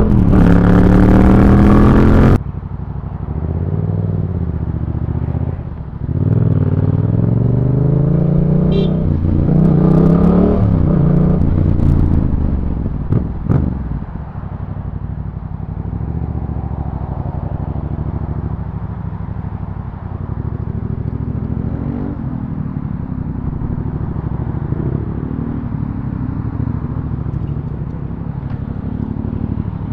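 Motorcycle engine heard from on board, accelerating with rising pitch through the gears, then settling into steady running with road and wind noise. The sound changes abruptly about two seconds in.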